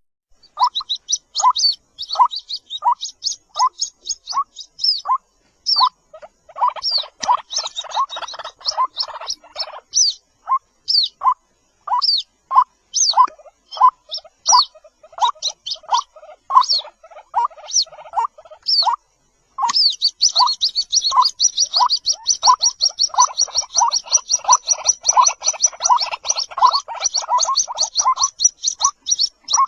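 White-breasted waterhen chicks calling: short notes repeated about twice a second, with a layer of high, thin chirps that turns into a rapid unbroken series about two-thirds of the way through.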